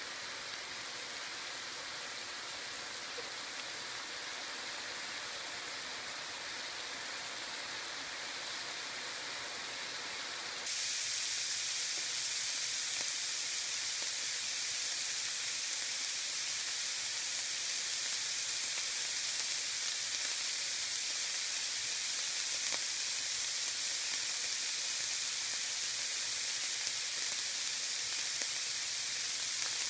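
Food sizzling in a frying pan, a steady crackling hiss with a few faint pops. About ten seconds in it suddenly gets louder and brighter.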